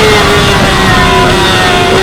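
2016 Yamaha R6's 599 cc inline-four engine running loud at high revs, its pitch falling slowly and steadily.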